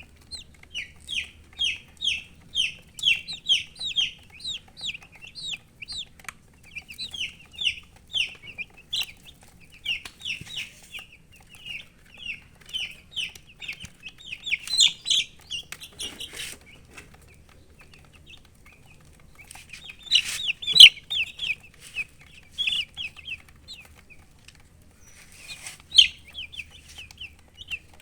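Baby chicks peeping: runs of short, high, falling peeps at about three a second, broken by pauses of a couple of seconds now and then.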